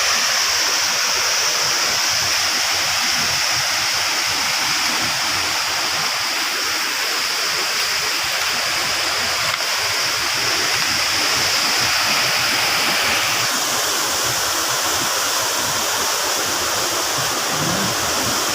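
Waterfall pouring steadily: a continuous rushing hiss of falling water, its tone shifting slightly about two-thirds of the way through.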